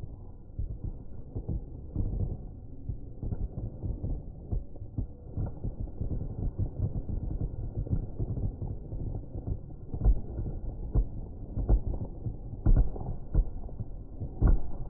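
Fireworks display going off: a continuous run of dull, low booms and thuds, with several louder bangs in the second half.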